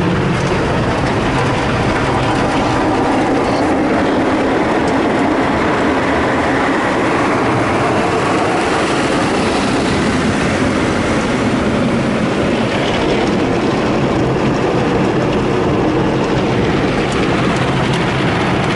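Ryko SoftGloss XS in-bay automatic car wash running through its cycle: a loud, steady wash of noise over a low hum.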